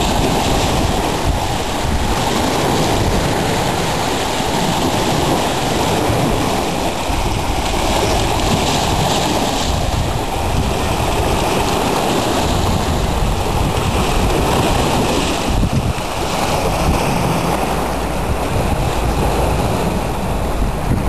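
Wind-driven waves on Lake Superior washing and breaking on the shore, with strong wind buffeting the microphone: a steady, loud rushing noise with a heavy low rumble.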